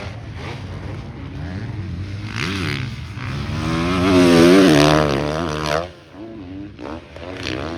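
Motocross dirt bike engine revving hard as a bike comes by on track. It is loudest about four and a half seconds in, with its pitch bending up and down, and cuts off suddenly about a second later.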